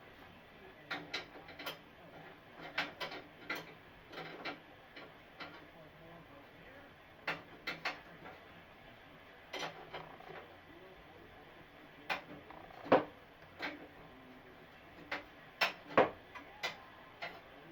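Irregular sharp clicks and knocks of hard objects, about twenty of them spread unevenly, some in quick pairs or triplets, the loudest about thirteen and sixteen seconds in.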